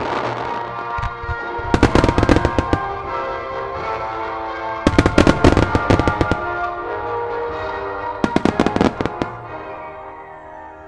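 Three volleys of firework shells bursting in rapid crackling clusters, over music that fades near the end.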